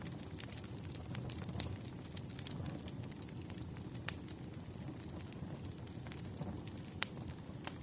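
Wood fire crackling, with scattered sharp pops and snaps over a low, steady rumble of burning logs.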